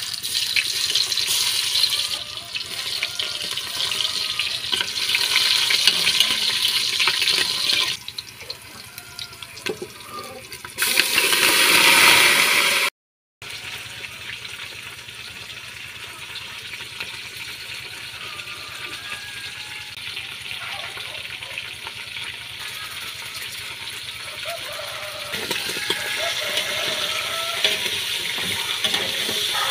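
Garlic and then chicken pieces frying in oil in an aluminium pressure-cooker pot: a loud sizzle at first, a louder hiss for a couple of seconds about eleven seconds in, then a softer steady sizzle that grows louder near the end as a ladle stirs the meat.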